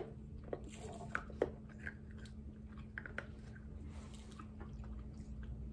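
Close-up mouth sounds of chewing candy: scattered small clicks and soft wet smacks, most of them in the first few seconds.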